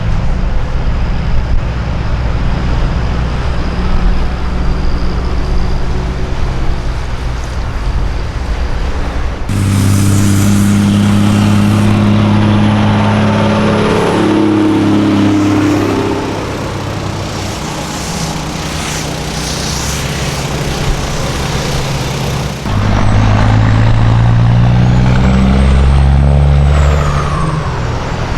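Heavy diesel semi-truck engines running and pulling through, heard in three clips cut together; around the middle the engine note rises and shifts as a truck gets under way.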